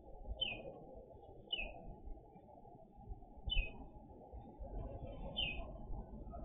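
A bird calling four times in short, falling chirps a second or two apart, over a low rumble of background noise.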